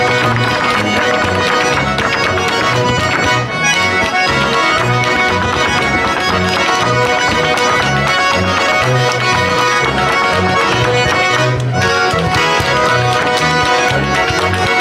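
Traditional folk music led by accordion, with a steady, evenly pulsing bass line.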